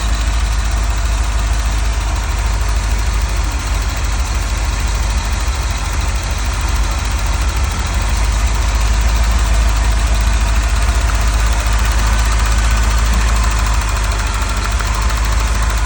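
Cross-Fire Injection V8 idling with a steady hammering noise, which the owner puts down to the fuel injectors. The idle is somewhat rough and gets a little louder about halfway through.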